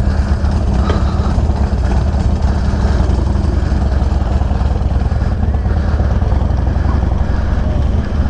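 Harley-Davidson Dyna's V-twin engine with a Bassani Road Rage 3 exhaust, running steadily at low speed as the bike rolls along.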